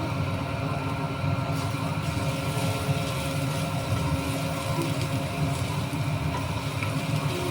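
A steady low mechanical hum with a few faint steady tones over it, unchanging throughout.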